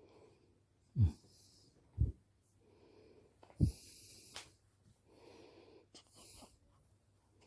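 A newborn baby snorting and snuffling in short breathy spells. Three short low thuds stand out, about a second in, at two seconds and past three and a half seconds, the first sliding down in pitch.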